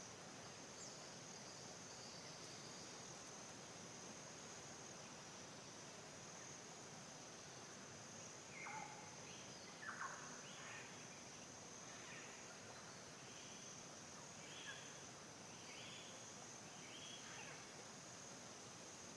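Faint forest ambience: a steady, high-pitched insect drone runs throughout. From about halfway in, a string of short chirping bird calls is scattered over it.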